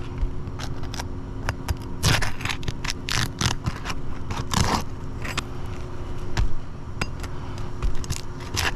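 Asphalt roof shingles being worked loose and torn: a run of sharp clicks and crackling with several longer scrapes, over a steady low hum. The shingles are so thin and brittle that they tear instead of lifting.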